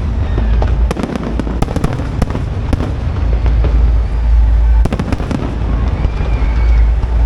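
Aerial fireworks going off: a rapid run of sharp cracks and reports about a second in and another cluster around five seconds, over a steady low rumble.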